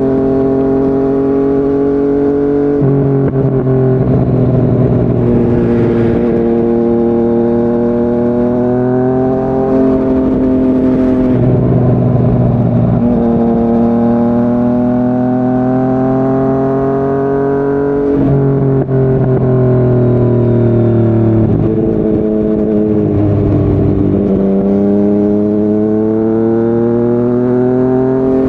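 Yamaha MT-09's three-cylinder engine, heard through a Yoshimura R55 slip-on exhaust, pulling at speed. Its pitch climbs steadily, drops sharply several times and climbs again after each drop.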